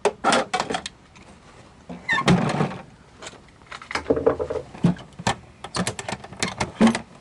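Plastic meat packaging being cut open with a dull utility knife and handled: a series of sharp clicks and knocks, with a longer rustle about two seconds in.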